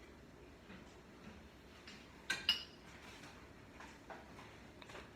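Kitchen utensils knocking on a bowl or measuring cup: two sharp clinks with a short ring about two seconds in, among a few softer taps.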